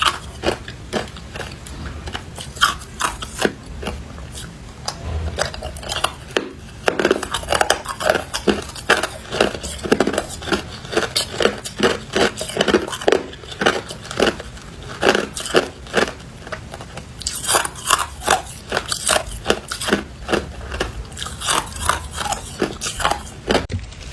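Hard ice being bitten and chewed close to the microphone: a steady run of sharp, irregular crunches, several a second.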